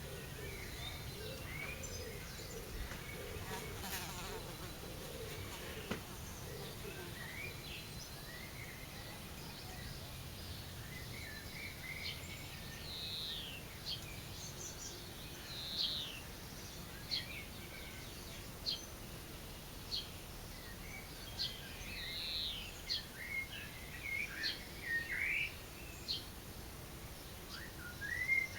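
A fly buzzing in the first several seconds, then short, high bird chirps and calls that come more and more often toward the end.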